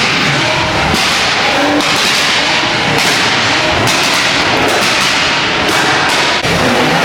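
Car engine revving hard with loud tyre noise from wheelspin, broken by several sharp cracks.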